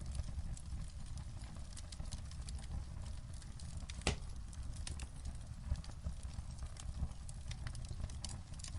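Wood fire crackling, with frequent small irregular pops and one sharper pop about four seconds in, over a low steady rumble.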